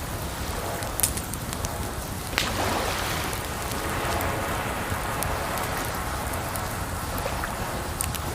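Campfire crackling with sharp pops about a second in, at about two and a half seconds and near the end, over a steady wash of running water.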